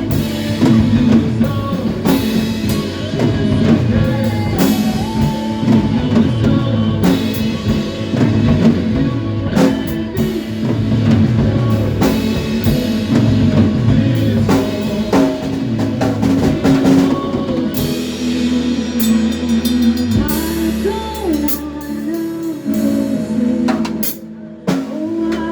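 Live band rehearsing: drum kit, bass and guitar playing together with a steady beat. The low end changes about three quarters of the way through, and the sound dips briefly just before the end.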